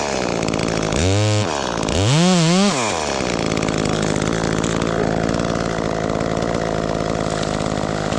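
Two-stroke chainsaw revved in two short blips, its pitch rising and falling each time, then running steadily.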